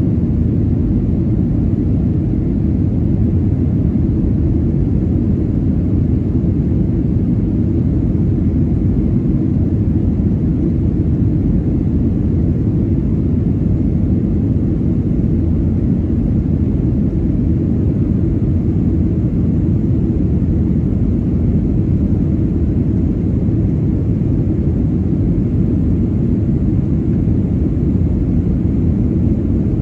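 Steady low cabin roar of a Boeing 737-900ER in flight: its CFM56-7B jet engines and the airflow, heard from inside the cabin at a rear window seat.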